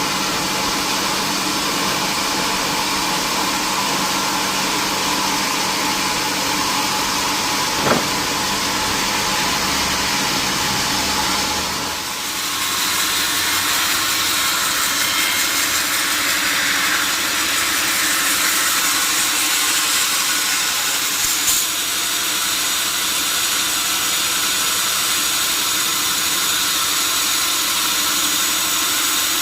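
Sawmill machinery running steadily, a loud even noise with a steady hum. A sharp knock comes about eight seconds in; about twelve seconds in the low hum drops away and the sound shifts higher.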